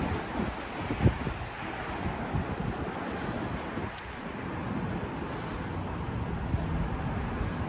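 City street traffic running by, with gusts of wind buffeting the microphone in low rumbles.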